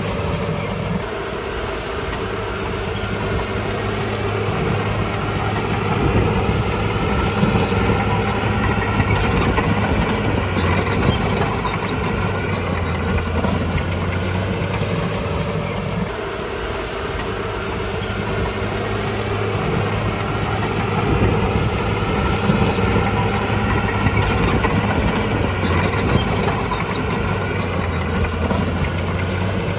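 Heavy diesel engine of a bulldozer working, its note swelling and easing in slow waves as the load comes and goes. There are brief high squeaks about ten seconds in and again near the end.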